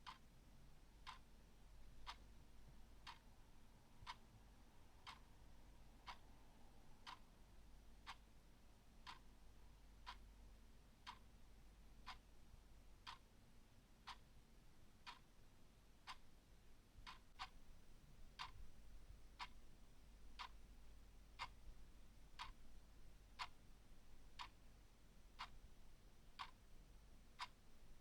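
Clock ticking faintly and evenly, about one tick a second, with a couple of ticks falling closer together in the second half.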